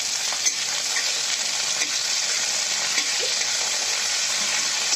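Chopped green beans sizzling steadily in hot oil in a kadai (wok) while a metal spatula stirs them, with a few light scrapes and clicks of the spatula against the pan.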